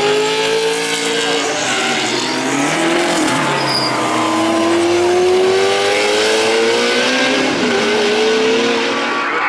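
Racing car engine under hard acceleration, its pitch climbing steadily through each gear and dropping briefly at a few upshifts before climbing again.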